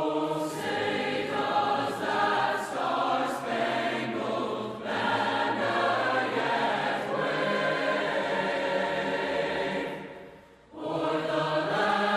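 Choral music: a choir singing sustained notes. It drops away briefly about ten and a half seconds in, then resumes.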